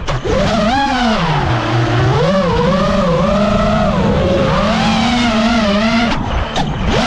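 Brushless motors and propellers of a 5-inch freestyle FPV quadcopter whining, the pitch constantly rising and falling with the throttle. The sound drops away briefly at the start and again about six seconds in.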